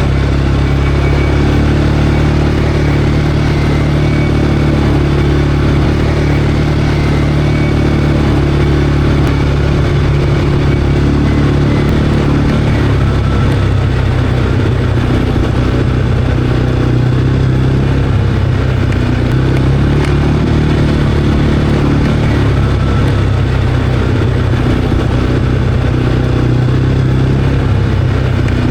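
CFMOTO Cforce 520L ATV's single-cylinder engine running steadily under way, its pitch shifting slightly now and then as the throttle changes.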